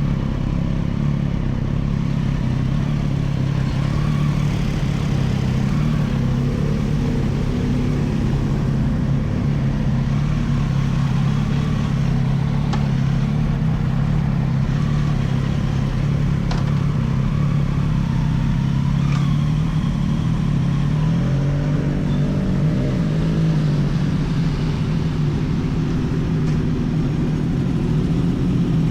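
Motorcycle engine running steadily, its pitch holding nearly even and wavering a little about two-thirds of the way through, with a few faint clicks.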